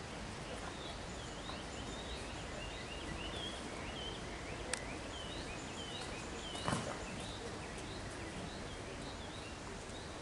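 Small birds chirping: a run of short, quick, high notes, several a second, over a steady background hiss. A sharp click about five seconds in and a louder knock a little before seven seconds.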